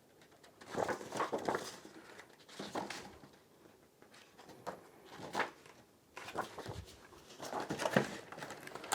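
Packaging and parts being handled: irregular rustles, scrapes and light knocks in short clusters, busiest in the last few seconds.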